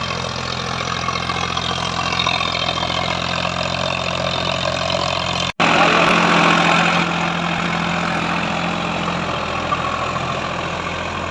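Sonalika DI-734 tractor's diesel engine running steadily. About halfway through, the sound drops out for an instant and comes back louder for a second or so, then settles.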